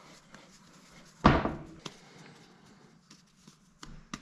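A single dull thud about a second in, something being set down or knocked, followed by a few faint light clicks and knocks.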